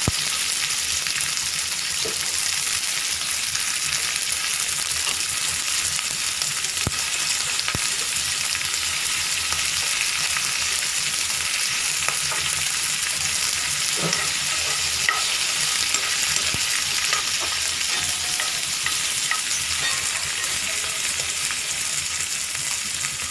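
Peanuts and green peas sizzling steadily in hot oil with mustard, cumin and coriander seeds, being roasted while stirred in the pan. A few sharp clicks of the stirring utensil against the pan come through the sizzle.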